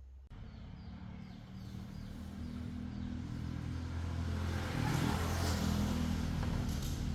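A vehicle engine running and growing steadily louder over several seconds, as it comes closer.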